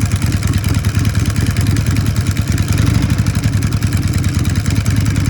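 Custom Harley-Davidson V-twin motorcycle engine running loudly at a steady idle, a rapid run of exhaust beats.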